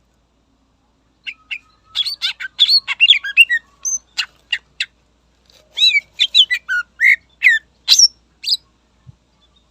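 Green leafbird (cucak ijo) singing in rapid runs of sharp chirps and short whistled notes that slide up and down. Two bursts of song come after about a second of quiet, with a brief pause between them.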